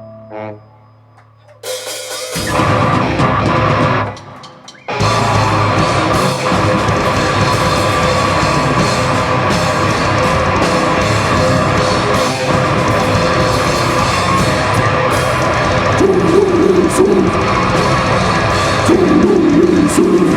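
Live rock band with drum kit and distorted electric guitars. After a near-quiet gap at the start, the band comes in, stops briefly about four seconds in, then plays on at full volume without vocals.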